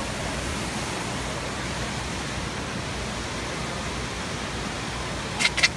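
Steady rushing of fountain water. A quick cluster of short, sharp high sounds comes near the end.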